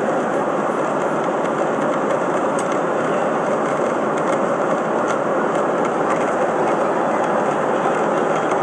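Steady airliner cabin noise in flight: an even rush of engine and airflow noise that holds at one level.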